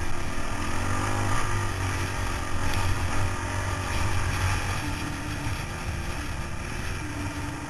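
Motorcycle engine running steadily under way, its pitch shifting slightly up and down.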